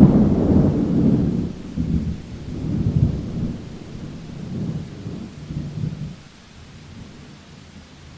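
A thunderclap breaks suddenly, then rumbles on in several rolling swells that die away after about six seconds, over steady rain.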